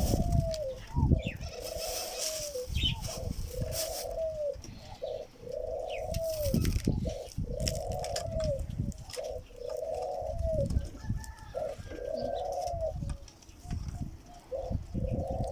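Pigeon cooing over and over, a series of about eight low, similar coos, each falling away at its end. A low rumble runs underneath.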